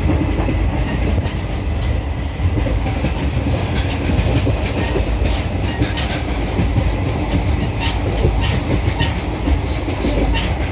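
Hapa–Madgaon SF Express passenger train running at speed, heard from on board: a steady low rumble of wheels and carriage, with irregular clicks of the wheels over rail joints, more frequent from about four seconds in.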